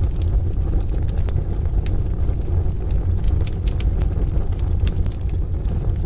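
Wood-stove fire crackling, with scattered sharp pops over a steady low rumble.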